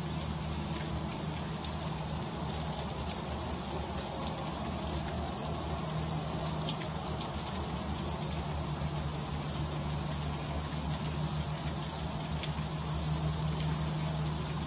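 Freezing rain falling steadily, a constant hiss with many small scattered ticks of drops and ice striking surfaces. A faint steady low hum runs beneath it.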